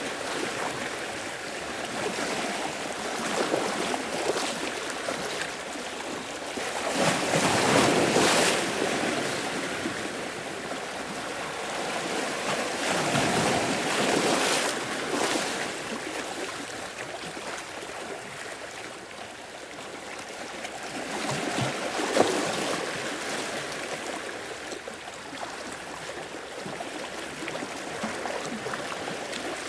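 Sea waves washing onto the shore, the surf noise swelling and fading in slow surges: the biggest breaks come about a quarter of the way in, near the middle and about three-quarters through.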